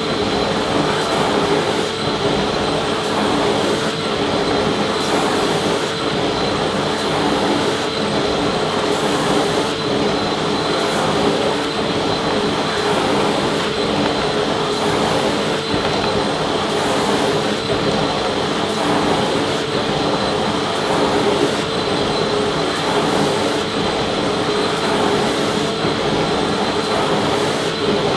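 Vacuum cleaner running steadily: an even rush of air with a held motor hum and a high whine over it.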